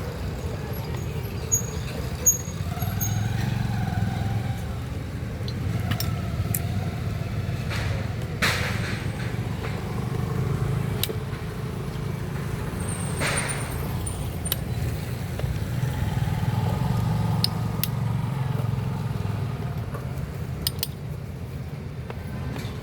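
Steady low rumble of vehicle engines, with occasional sharp metallic clinks and taps of hand tools on engine parts.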